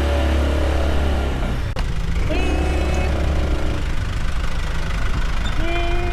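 Vehicle engine running with a steady low rumble, a sharp click about two seconds in, and a few short held tones over it.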